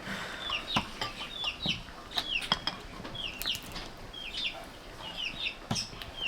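A bird cheeping over and over in short, high, falling chirps, about one or two a second, with a few sharp knocks in between.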